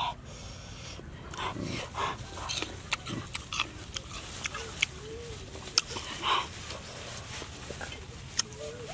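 Close-up eating sounds: crisp, crunchy bites into star gooseberries and wet chewing and lip-smacking, with sharp crunches coming at irregular intervals.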